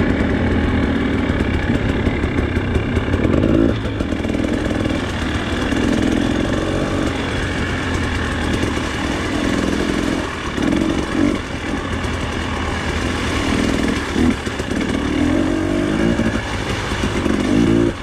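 Off-road motorcycle engine running while ridden, the throttle opening and closing so the sound surges every second or so.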